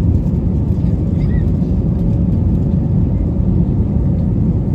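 Steady low rumble of an Airbus A321 airliner heard from inside the passenger cabin, the engine and air noise even and unbroken.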